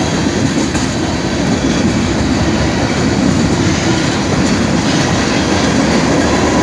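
Freight train of tank cars and covered hopper cars rolling past close by: a loud, steady rumble of steel wheels on the rails, heaviest in the low range.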